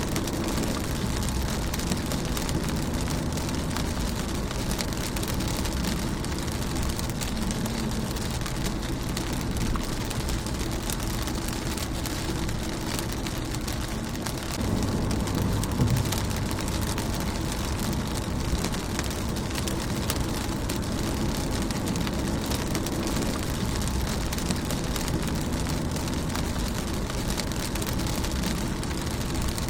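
Steady rain pattering on a car's windshield and body, with a constant low rumble underneath that swells briefly about halfway through.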